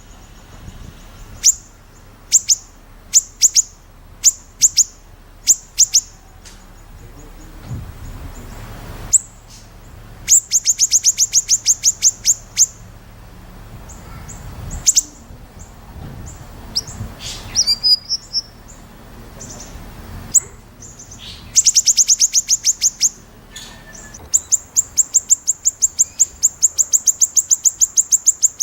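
White-rumped shama (murai batu) singing loudly: sharp, high piercing notes given singly at first, then several long, fast runs of the same note repeated many times a second, the 'besetan' rattle prized by contest judges, the longest run going on near the end.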